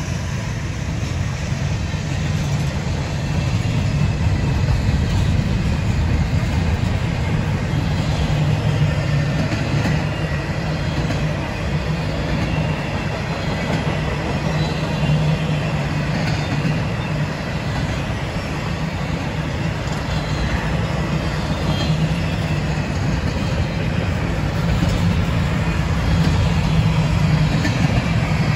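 Intermodal freight train's double-stack well cars and trailer cars rolling past: a steady rumble of steel wheels on the rails, getting slightly louder toward the end.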